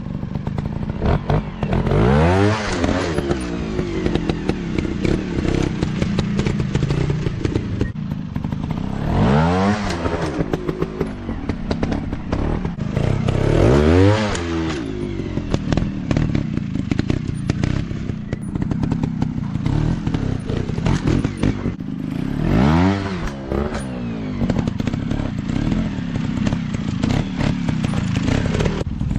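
Dirt bike engine running and revving in repeated bursts, each rising sharply in pitch, about four times, with clatter and knocks from the ride in between.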